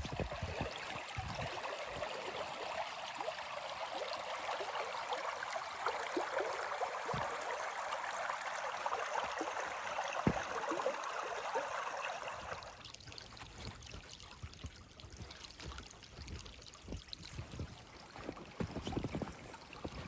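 Steady rushing of running water, a stream. It cuts off abruptly about two-thirds of the way through, giving way to a low rumble of wind on the microphone with a few light knocks.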